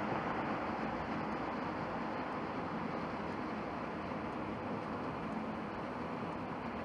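Boeing 787-8 Dreamliner jet engines, a steady broad rush of noise that eases off slightly over the few seconds.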